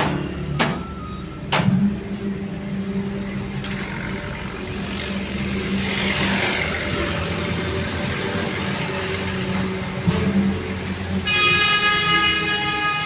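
A motor vehicle engine running steadily, with two sharp knocks in the first couple of seconds. A sustained horn-like tone starts near the end.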